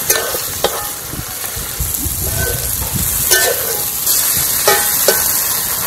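Chicken in masala sizzling in an aluminium pot while a metal spoon stirs it and scrapes against the pot a few times, mixing in the freshly added whole spices.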